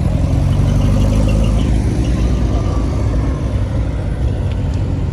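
Car engine running with a deep low rumble, loudest in the first couple of seconds and easing off a little after.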